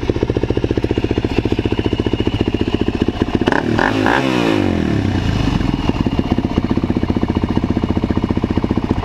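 2006 Suzuki LT-Z400 quad's single-cylinder four-stroke engine idling through a full Yoshimura exhaust, with an even, loping beat. About three and a half seconds in, one quick blip of the throttle makes the note rise and fall before it settles back to idle.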